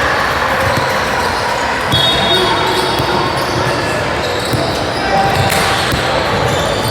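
Basketball game in a gym: a ball bouncing on the court amid echoing spectator voices, with a few short high squeaks, about two and four and a half seconds in.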